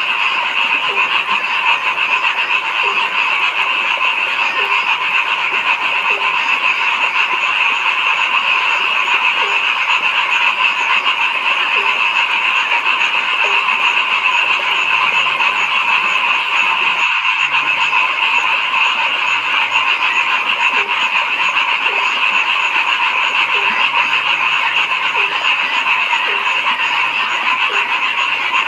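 A dense chorus of many frogs calling at once, a steady unbroken din, with lower single calls coming through about once a second.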